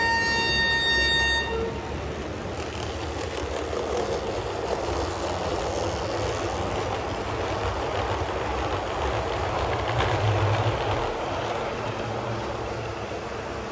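A train passing with a steady rumble. A horn blast at the start stops about a second and a half in.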